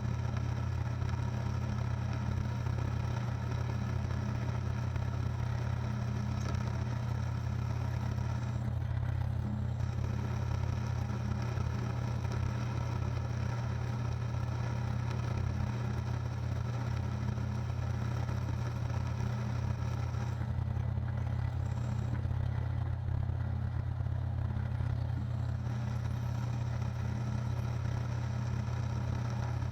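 Machine motor running with a steady hum while a drill bit drills a deep hole in a 4140 steel block.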